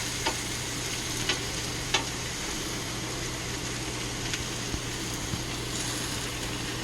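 Marinated chicken sizzling steadily on a hot cooking surface, with a few light clicks.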